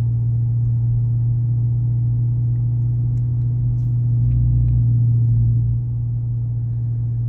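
2019 Dodge Charger R/T's 5.7-litre HEMI V8 cruising at low revs through Black Widow Neighborhater mufflers with the resonator deleted: a steady low exhaust drone heard inside the closed cabin. It swells slightly about four seconds in, then eases off just before six seconds.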